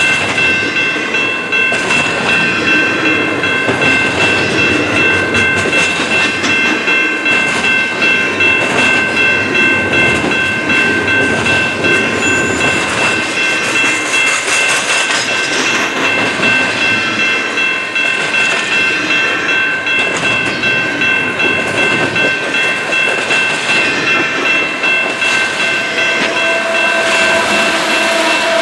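Canadian Pacific intermodal freight train crawling past at low speed, its cars rolling and clicking over the rail joints. A grade-crossing warning bell rings over it, heard as steady high tones with a quick, even pulse.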